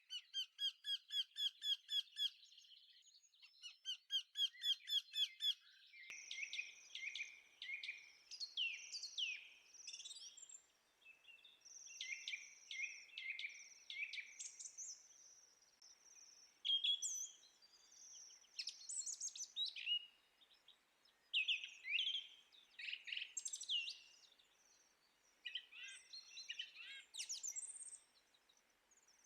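Birds chirping and singing: fast repeated chirps, about eight a second, for the first few seconds, then varied whistled phrases with a faint hiss behind them.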